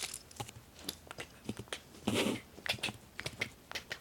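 Scattered light clicks and taps of small hard objects being handled, with a short rustle about two seconds in.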